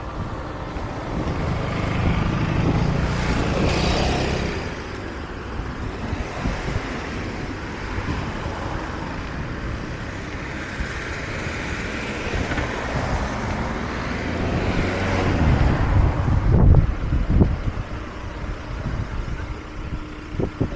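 Street traffic: a steady road noise that swells twice as vehicles pass, a few seconds in and again toward the end.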